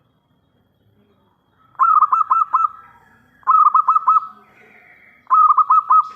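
Zebra dove (perkutut) singing: three short phrases of its cooing song, each a quick run of four or five notes, about a second and a half apart.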